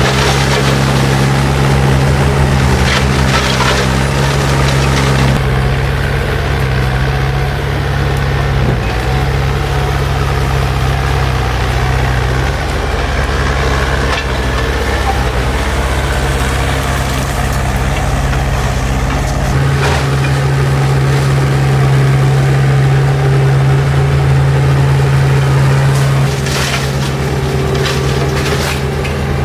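Spider excavator's diesel engine running steadily under load, its pitch shifting a couple of times, with wood and brush crackling and splintering as it is crushed at intervals.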